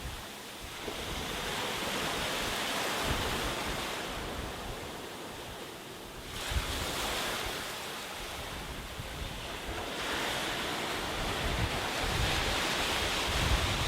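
Sea waves breaking on a beach, the surf rising and falling in about three swells. Wind buffets the microphone with low rumbles near the end.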